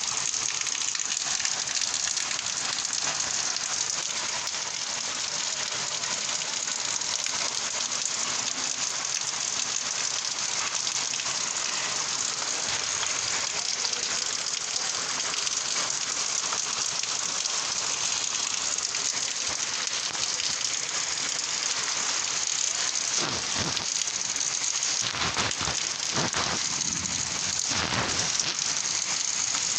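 Steady rain falling, an even hiss, with a few louder surges near the end.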